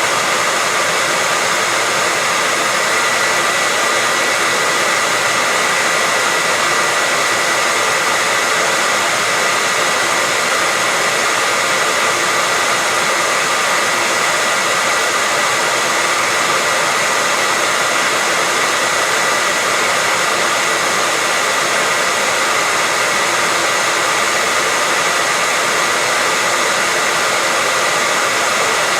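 Hair dryer running steadily: an even rush of blown air with a steady high whine from its motor and fan, unchanging throughout.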